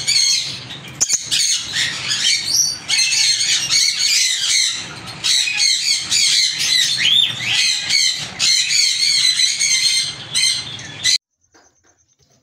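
Many small cage birds chirping and squawking at once in a dense, continuous chatter that cuts off abruptly about eleven seconds in.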